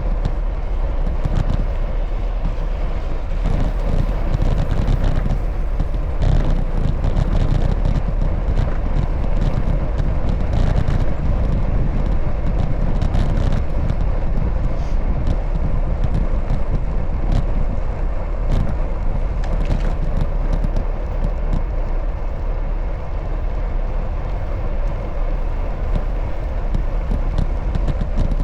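Steady wind and road rush from a moving bicycle, heaviest in the low rumble, with a few brief clicks and knocks along the way.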